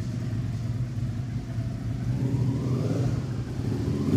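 Motorcycle engine running steadily, with a faint rise in pitch about two to three seconds in.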